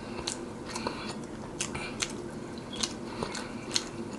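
A man chewing a mouthful of chili-topped fries with his mouth closed, giving irregular soft wet clicks and smacks.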